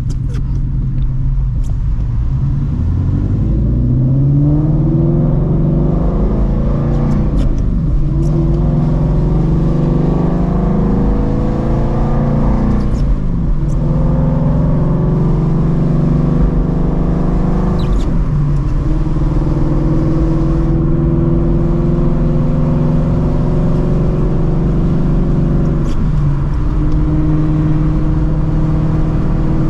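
Shelby GT350's 5.2-litre Voodoo flat-plane-crank V8 with long-tube headers, X-pipe and Borla cat-back exhaust, pulling up through the gears: the engine note climbs, drops at each shift (about four times), then settles to a steadier cruise. The exhaust valves are shut in weather mode, yet it is still crazy loud.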